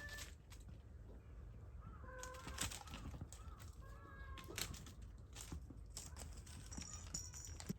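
Kittens giving short, high-pitched mews several times, with scattered light clicks and rustles of kittens moving about.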